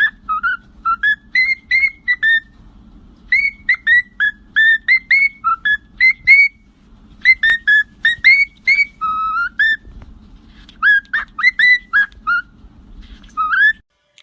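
A parrot whistling: quick runs of short, sharply gliding whistled notes, about four or five a second, in phrases broken by brief pauses. The sound stops abruptly near the end.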